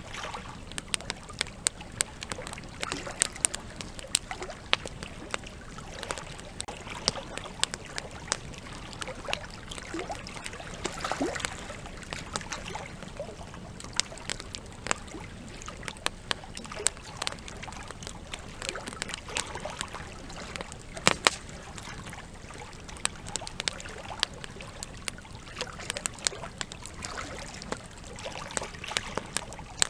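Wood campfire crackling with frequent sharp pops, a louder pop about 21 seconds in, over the steady rush of a river.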